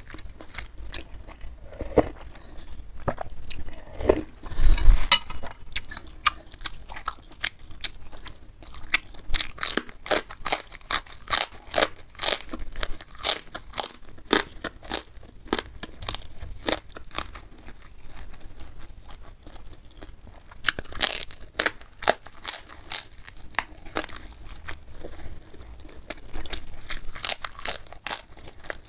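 Close-miked chewing of a mouthful of food, with many sharp, rapid crunches and mouth clicks. There is one loud low thud about four to five seconds in.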